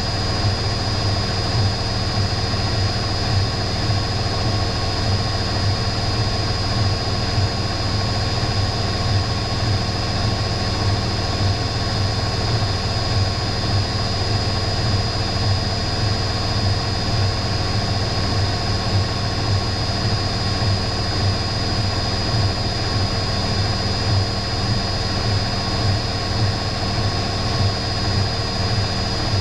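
Electrolux EW6S404WU front-loading washing machine spinning at a steady high speed: a constant low drum hum under a high, steady motor whine.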